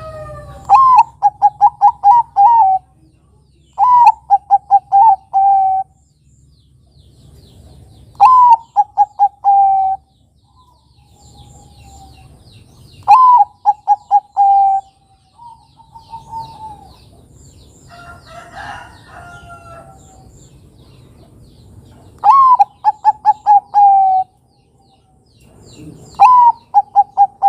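Bangkok-type zebra dove (perkutut) cooing in repeated phrases: each is one downward-sliding note followed by a quick run of five or six short coos, about two seconds long, sung six times with pauses between. A rougher call from another bird comes about two-thirds through, with faint chirping of small birds behind.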